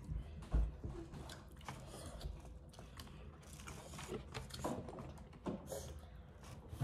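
Eating sounds from a spicy noodle and topokki meal: chewing, with scattered small clicks and taps and a low thump about half a second in.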